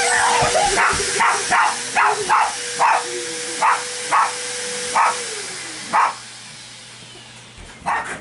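Dogs barking sharply and repeatedly, about a dozen barks, at a running vacuum cleaner. The vacuum's motor whine drops in pitch and winds down about five seconds in, as it is switched off, and the barking stops soon after.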